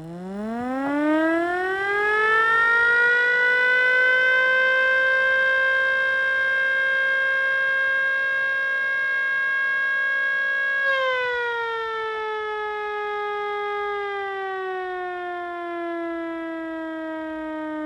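3D-printed S2 mini siren winding up over about two seconds to a steady wail and holding it. About eleven seconds in its pitch drops suddenly, then falls slowly as the siren winds down.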